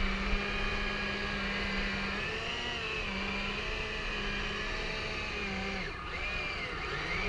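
Twin electric drive motors of a Hobby Engine Southampton RC tug whining, their pitch rising and falling as the throttle is worked, with a steady low hum that drops out twice.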